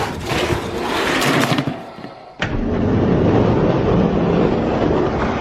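Die-cast toy monster trucks racing down a track, heard as a steady noisy rumble and scrape. The sound dips and restarts abruptly about two seconds in.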